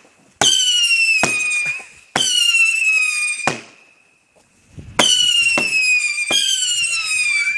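Whistling fireworks going off one after another: four shrill whistles, each starting suddenly and sliding slightly down in pitch, with sharp cracks between them.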